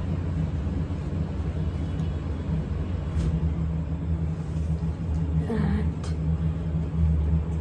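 A steady low rumbling hum, with a brief faint sound of a voice about five and a half seconds in.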